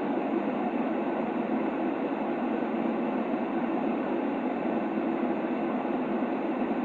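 Steady white noise for a baby's sleep: an even, unbroken hiss, heavier in the lower middle and with little deep bass.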